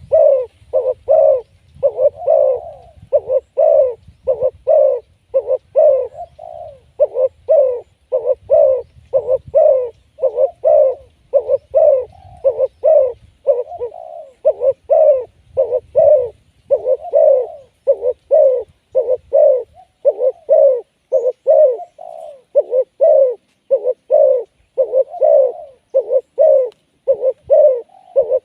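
Spotted dove cooing over and over, a steady run of short low coo notes about one and a half a second, grouped in phrases.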